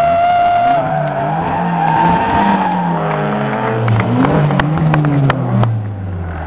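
Mercedes 2.3 16v drifting: a brief high tyre squeal at the start, then the engine revving up and down through the slide. A handful of sharp cracks come about two-thirds of the way through, and the engine pitch falls near the end.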